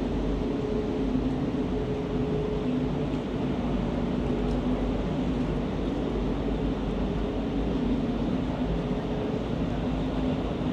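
Steady mechanical hum from an engine or motor over a constant low rumble, with no breaks or changes.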